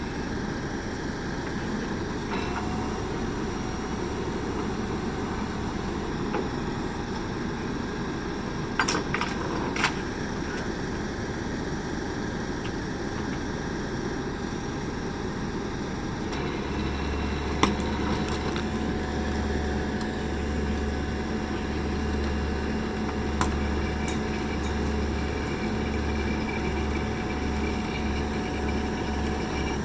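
Steady outdoor rumble with a few sharp knocks; a little past halfway a low steady hum with a faint whine comes in and holds.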